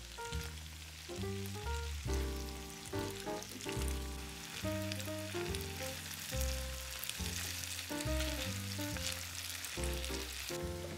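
Food sizzling and crackling as it fries in a pan, a steady spitting hiss with fine pops, under background music.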